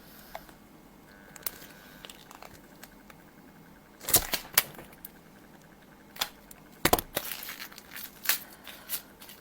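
Packaging being handled by hand: crinkling and rustling with sharp clicks. The sound comes in two busy spells, about four seconds in and again from about seven to eight and a half seconds, with quiet handling between.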